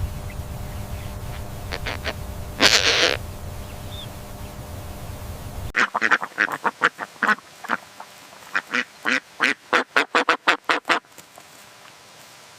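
A fast run of about twenty short, harsh animal calls over about five seconds, after a cut from a low rumbling background that holds a single harsh burst.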